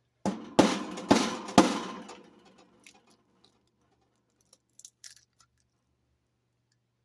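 Kitchen handling noise: a rustling scrape with three sharp knocks about half a second apart, fading over a second or two, then a couple of faint clicks.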